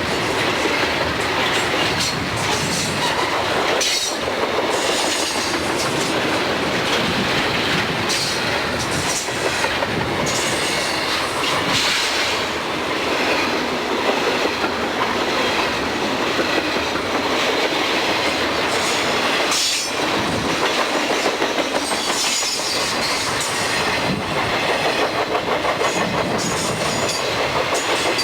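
Freight train cars rolling past, wheels clacking over the rail joints in a steady run, with the rhythmic clicks plainest near the end.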